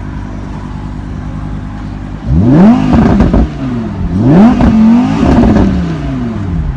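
Lamborghini Huracan LP610-4's naturally aspirated V10 idling, then revved twice in neutral. The first rev rises and falls quickly about two seconds in; the second is held near the top for about a second before dropping back to idle near the end.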